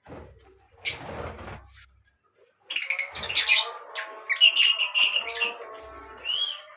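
Birds chirping and calling in quick, overlapping bursts, with a sharp call about a second in and a denser run of rapid trilled chirps from about the middle.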